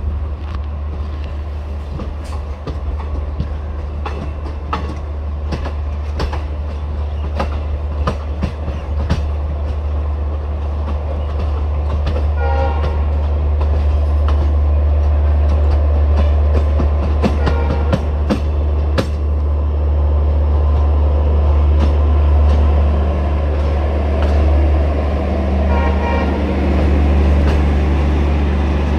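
Passenger train running, heard from on board: a steady low rumble with sharp wheel clicks over rail joints, growing louder about halfway through as it gathers speed. A short horn toot about twelve seconds in, and another near the end.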